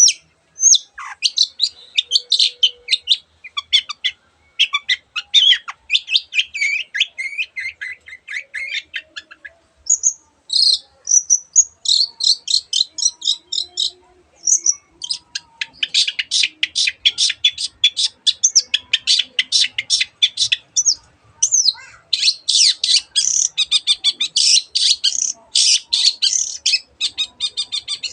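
Long-tailed shrike singing a fast, varied chattering song: long runs of rapid, high-pitched repeated notes, broken by two short pauses about a third and about half of the way through.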